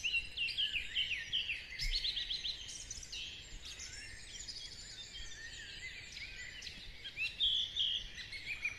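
Dawn chorus: many songbirds singing at once, overlapping chirps, trills and whistles, busiest in the first few seconds, with a quick run of repeated notes near the end.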